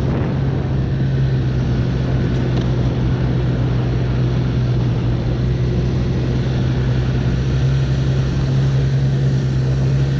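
Arctic Cat Norseman 3000 snowmobile's four-stroke engine running steadily at an even throttle while riding, with a strong constant low hum.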